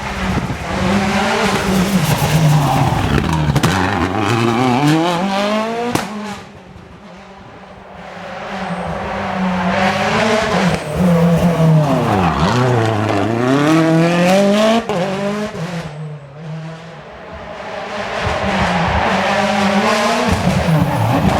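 Rally cars passing one after another at full throttle, their engines revving hard and dropping through gear changes, with a sharp crack about six seconds in. In the middle one car's revs fall low, as under braking and downshifting, then climb again as it accelerates away. Short quieter gaps fall between the cars.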